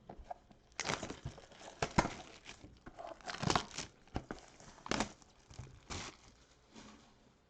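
Plastic wrapping and packaging of a trading card mega box crinkling and tearing as the box is opened, in irregular rustles with several sharp crackles.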